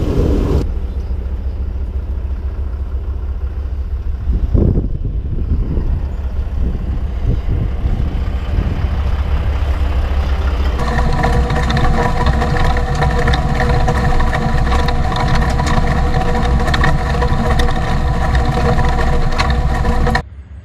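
Heavy diesel plow truck's engine running steadily with a deep rumble. About eleven seconds in the sound changes abruptly to a steadier engine hum with a clear pitched note.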